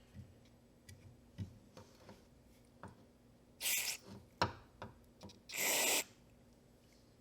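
Light clicks and knocks of small parts being handled, with two short hissing spurts of spray, about three and a half and five and a half seconds in.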